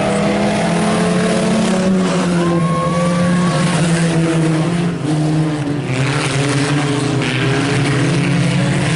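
A field of IMCA Sport Compact race cars, which run four-cylinder engines, racing around a dirt oval. Several engines overlap, their pitch rising and falling as the cars accelerate and lift through the turns.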